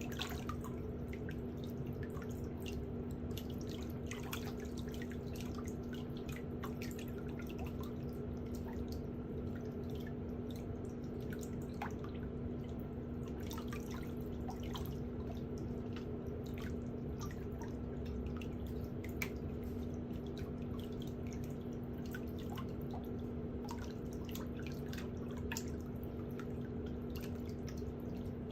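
A steady low hum with an even drone, and many small irregular clicks and ticks scattered over it.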